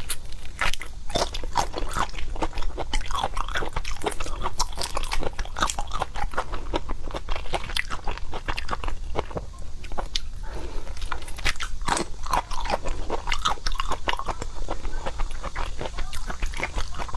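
Close-miked chewing and biting of seafood: a dense, irregular run of clicks and crackles, thinning briefly about ten seconds in.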